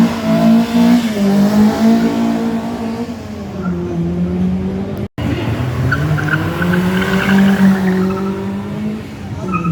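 Rally car engine revving up and down under hard throttle, with tyre squeal during a drift in the second half. The sound drops out abruptly for an instant about five seconds in.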